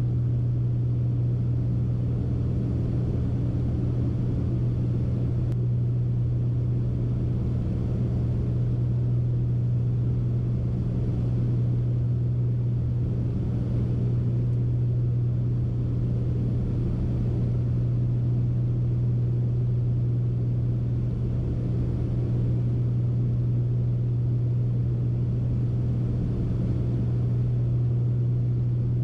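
Twin piston engines of a Beechcraft Baron B55 droning steadily on approach power, one constant low hum with no change in pitch or level.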